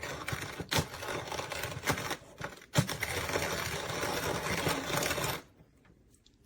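Manual coffee grinder with ceramic burrs being hand-cranked, the burrs crunching coffee beans in a steady rattling grind with small clicks; it stops abruptly about five and a half seconds in.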